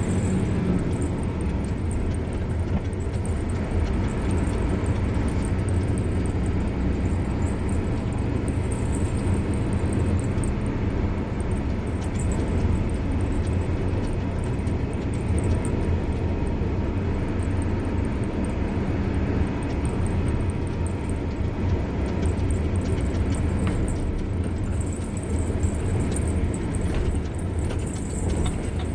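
Car driving along a road: steady engine and tyre rumble, with no change in pace.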